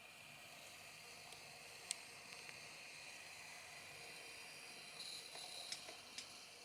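Near silence: faint steady hiss with a few soft clicks.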